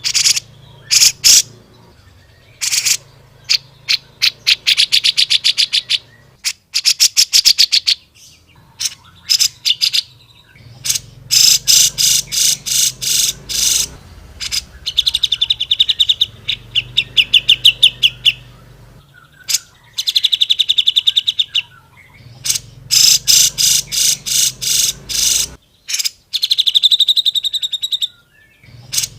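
Cucak jenggot (grey-cheeked bulbul) singing loudly in phrases of rapid, harsh repeated notes, each run lasting one to a few seconds, with short pauses between them.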